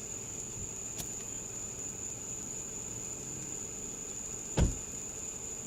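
Steady high-pitched trill of crickets, with a small click about a second in and a single thump about four and a half seconds in.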